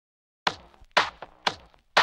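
Sharp percussive hits on a steady beat, about two a second, starting half a second in, each dying away quickly: the drum beat of a music track.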